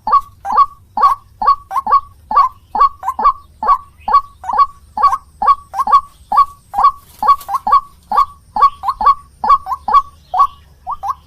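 White-breasted waterhen (ruak-ruak) calling: a fast, unbroken run of short, harsh call notes, about two or three a second, some coming in pairs.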